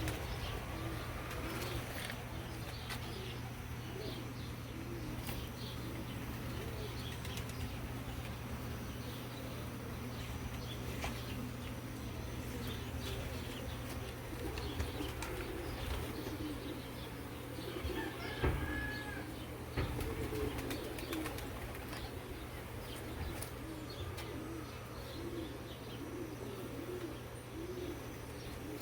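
Honeybees buzzing in a wavering drone around an opened hive during a frame inspection, with scattered light clicks and a sharper knock about two-thirds of the way through.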